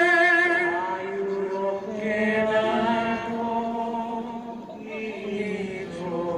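Slow singing with long held notes that waver in pitch. One note fades about a second in, the phrases thin out, and the singing picks up again near the end.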